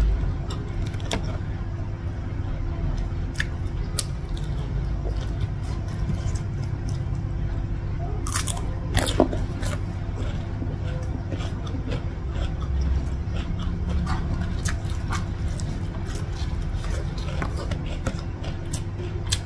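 Close-up eating sounds: chewing and mouth clicks while a rice-and-raw-vegetable meal is eaten by hand, with a louder cluster of crunchy clicks about eight to nine seconds in, over a steady low background hum.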